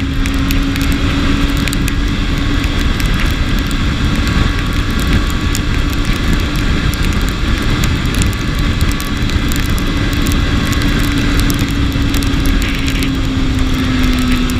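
BMW S1000RR inline-four motorcycle engine running at a steady cruising speed, its drone holding nearly one pitch and dipping slightly near the end, under a loud rush of riding wind.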